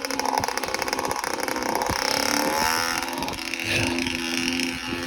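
Small two-stroke dirt bike engine of a 1997 Kawasaki KX60 running, its pitch rising about halfway through as it revs.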